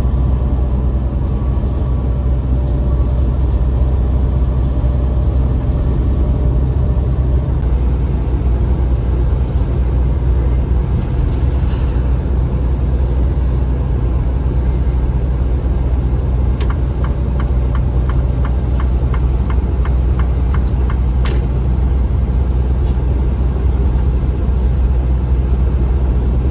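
Semi-truck cab while driving: steady low engine and road drone. About two-thirds of the way in comes a short run of even clicks, about three a second, then one sharper click.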